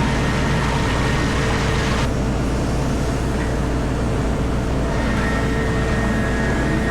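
Komatsu PC4000 mining excavator heard from inside its cab: a steady, loud machinery drone with a constant whine over it. A hissing upper layer drops away about two seconds in and returns about five seconds in.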